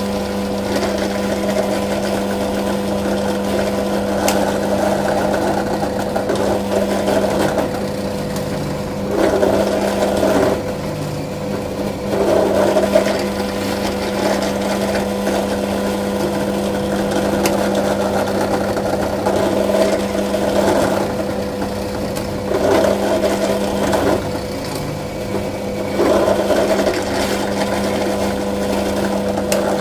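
Electric drill with a 9 mm bit running steadily, rising in level about five times as the bit bores holes in a wooden drill bit holder.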